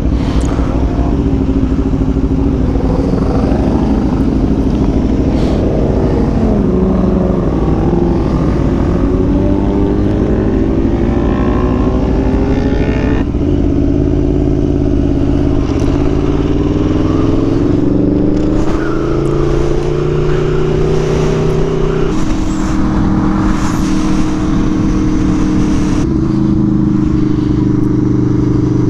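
Aprilia Tuono V4 1100 Factory's V4 engine through its SC Project exhaust, pulling hard on track. The revs sag and climb around seven seconds in, drop sharply at a gear change about thirteen seconds in, rise steadily again, and step down twice more near the end, over constant wind rush.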